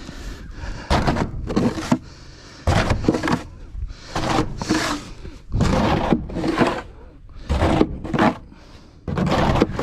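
Snow shovel scooping and scraping through soft snow, in a string of separate strokes about one every second or so.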